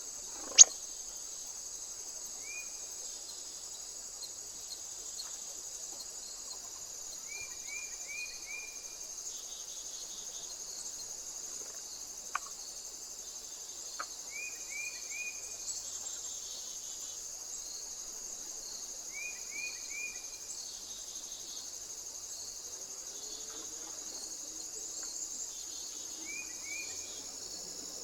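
Steady high-pitched insect chorus, with short chirps in twos and threes recurring every few seconds. A sharp click about half a second in is the loudest sound, with two fainter clicks later.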